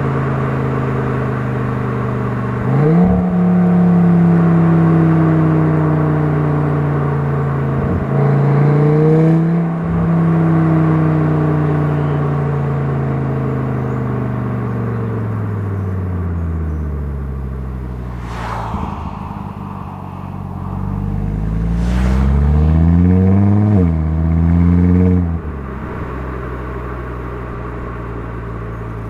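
Audi TT RS plus turbocharged five-cylinder engine and exhaust heard from outside the car while driving. About three seconds in, the engine note jumps and climbs under hard acceleration. It steps down at a gear change and then falls away slowly as the car slows. Two sharp cracks come near the end of the slowdown, then the note climbs hard again with a quick shift before settling back to a steady cruising drone.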